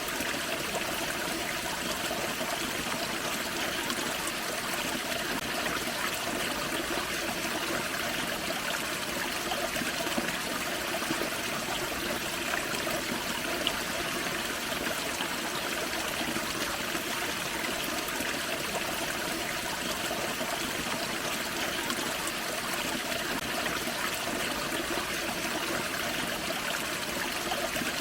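A forest creek running over a small waterfall: steady splashing and trickling water, even throughout.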